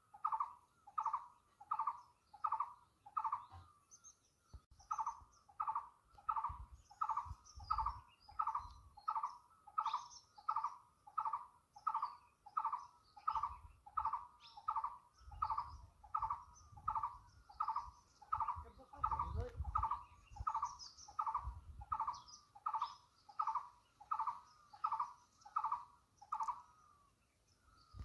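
A bird calling one short note over and over at an even pace, about one and a half notes a second, with a brief pause near the start. Faint higher chirps of other birds sound behind it.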